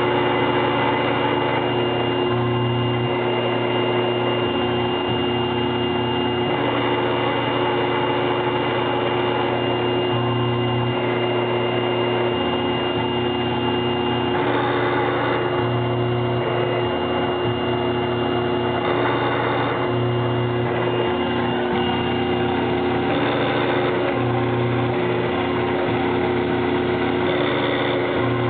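TAIG CNC mill running, its spindle turning an end mill through Delrin plastic, with servo-driven axis moves: a steady whine with a constant noisy cutting sound, the low hum swelling and easing every few seconds.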